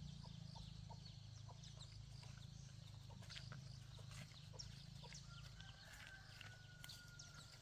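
Faint, scattered short bird calls over a low steady hum, with one longer held call a little past five seconds in.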